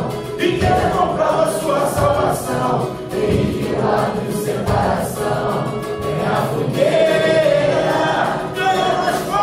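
A group of voices singing a song together in unison, with musical accompaniment.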